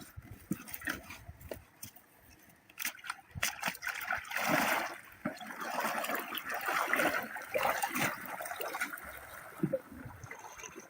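Water splashing and trickling in irregular surges, with scattered clicks early on.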